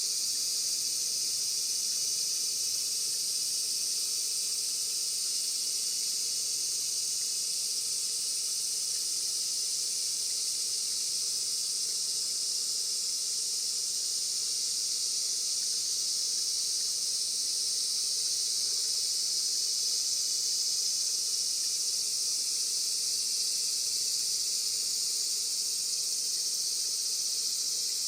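Steady, dense chorus of insects: an even, high-pitched buzzing hiss that does not let up.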